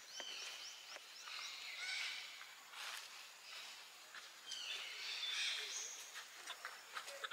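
Birds chirping in the background: runs of short, high, downward-sliding chirps over a light outdoor hiss, with a few soft clicks.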